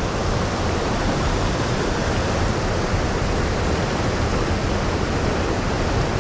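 Fast-flowing river water rushing steadily, a constant noise with no breaks.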